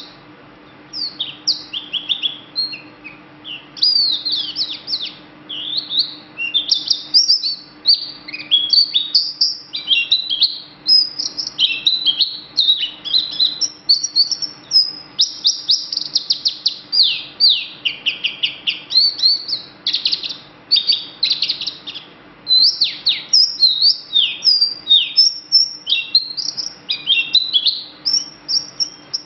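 A green songbird singing a rapid, varied, nearly unbroken stream of high whistled chirps, sweeping notes and trills, with a faint steady low hum beneath.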